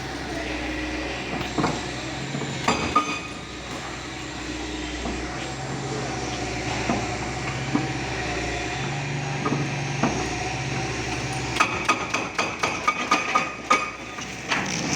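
Demolition work: a heavy machine's engine runs steadily under scattered metallic knocks and impacts. Near the end comes a rapid, irregular run of clattering knocks.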